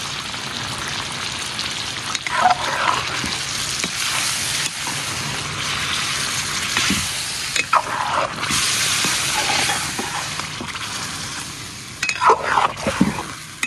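Chicken pieces with onion and ginger-garlic-green-chilli paste sizzling in hot ghee in a karahi, in a steady hiss. A perforated metal skimmer stirs and scrapes against the pan a few times.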